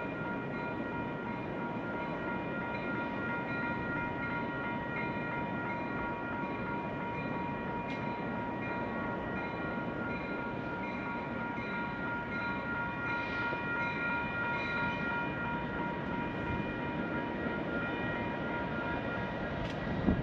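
A train rolling past on a main line: a steady rumble of wheels on rail with several constant high ringing tones over it.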